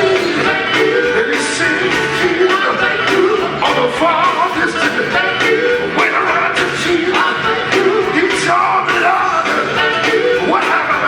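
Live gospel group singing with band accompaniment and a steady drum beat.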